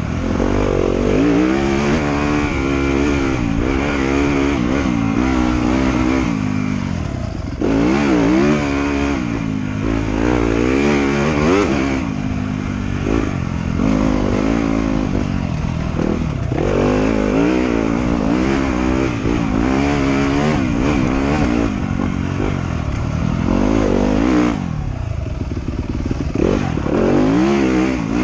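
Trail motorcycle engine being ridden, its pitch rising and falling over and over as the throttle is opened and closed, with several sudden drops in revs.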